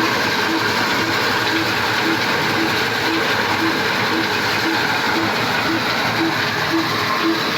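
Wheat cleaning machine running, powered by a 22 hp diesel 'black engine': a steady, loud mechanical clatter with a regular knock about twice a second.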